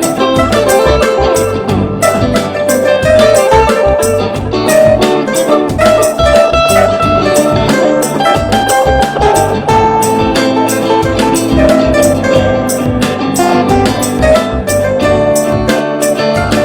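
Improvised instrumental band music: drums hitting beneath pitched melodic instruments.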